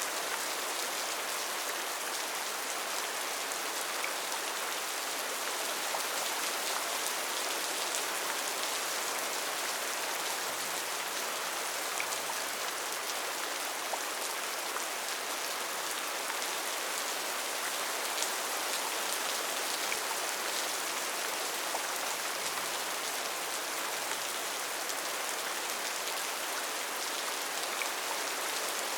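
Steady rainfall on rainforest foliage: a constant dense hiss of rain with scattered individual drops pattering.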